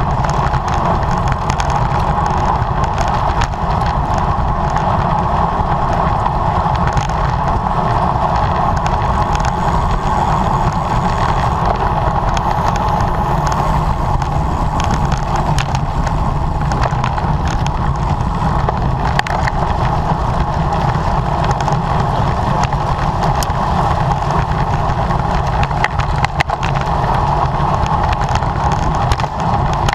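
Steady rush of wind and road noise from a road bicycle ridden at speed, with scattered light clicks.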